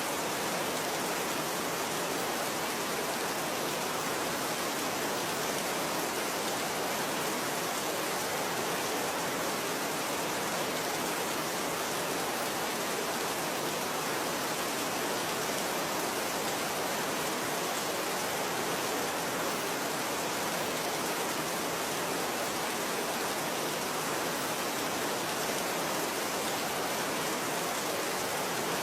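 Steady rain falling, a constant even hiss with no single drops standing out.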